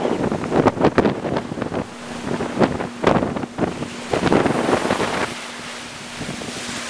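Storm-force wind gusts buffeting the microphone over waves crashing on the shore, in irregular blasts that ease off about five seconds in.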